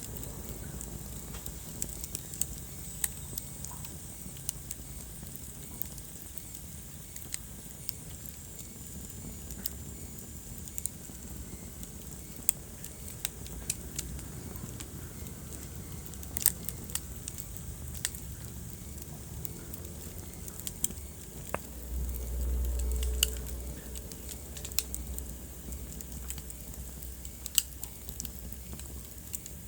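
Wood fire burning in a fireplace: irregular sharp crackles and pops over a low rumble. The rumble swells louder for about two seconds roughly three-quarters of the way through.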